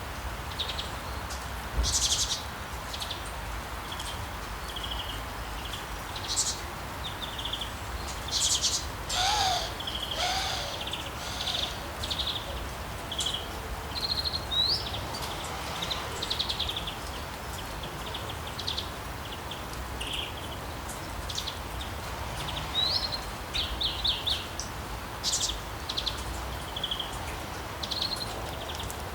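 Songbirds chirping and trilling in short, repeated high calls over a steady hiss of rain.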